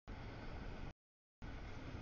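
Double-stack freight train's cars rolling past, a steady low rumble with hiss. The audio cuts out completely for about half a second near the middle, then resumes.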